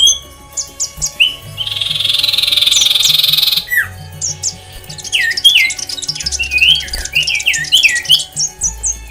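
Many aviary birds chirping and whistling with quick, overlapping calls. About a second and a half in, a harsh rasping squawk lasts about two seconds and is the loudest sound.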